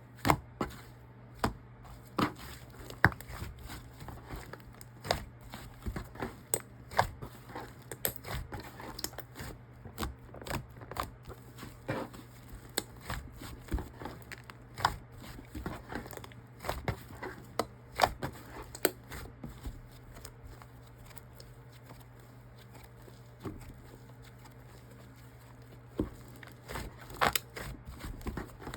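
Fluffy milk-white slime squished and pressed by hand, giving irregular sharp pops and crackles, with a quieter stretch about two-thirds of the way through. A steady low hum runs underneath.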